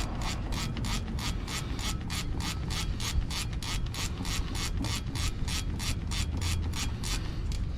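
An 11 mm ratcheting wrench clicking in a steady rhythm, about five clicks a second, as it backs out a driveshaft bolt. The clicking stops near the end.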